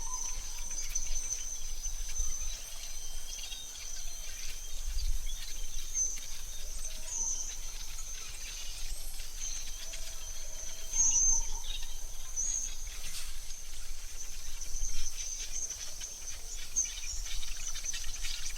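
AI-generated forest ambience: a steady high insect drone with short bird chirps every few seconds and a few soft whistled bird notes, over a low rumble.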